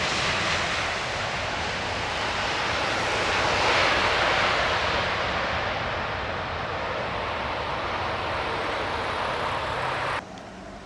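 Jet airliner's engines passing close on landing approach: a loud, even rushing noise that swells to its loudest about four seconds in, holds steady, then cuts off suddenly near the end.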